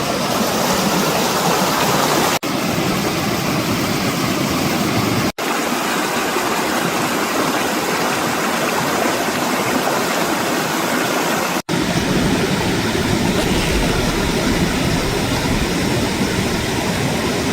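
Loud steady rush of water, even and unbroken except for three instant dropouts where the recording is cut.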